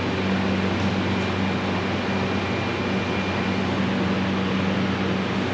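Steady whirring hum of a running fan or blower motor, even throughout with a low hum underneath.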